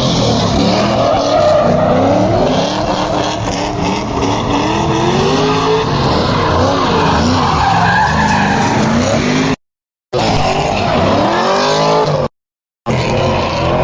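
Several supercar engines revving up and down at once, with tyre squeal. The sound drops out completely twice for about half a second, near the end.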